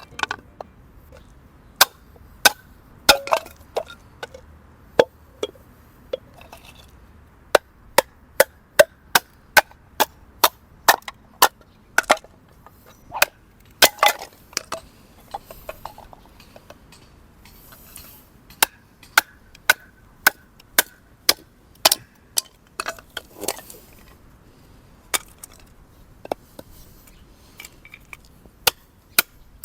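Wood being chopped: a long run of sharp, short chops, roughly one or two a second, broken by a few short pauses.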